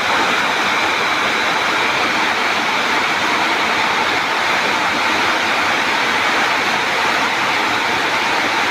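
Heavy rain falling, a steady, even wash of noise.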